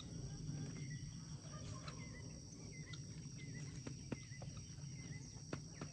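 Faint outdoor ambience: a steady high-pitched insect drone, with a short chirping call repeated about once a second. A few sharp clicks or snaps come in the second half.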